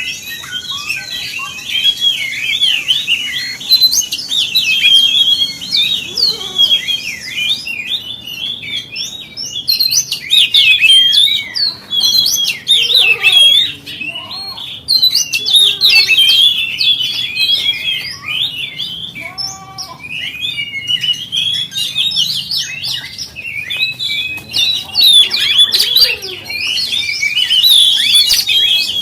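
Oriental magpie-robin (kacer) singing a fast, varied run of whistles and chattering notes with only brief pauses.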